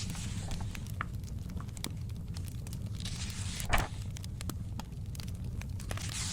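Fireplace crackling over a steady low rumble, with a book's pages turning three times: soft paper swishes at the start, about three seconds in and near the end. A sharper snap comes about midway, the loudest sound.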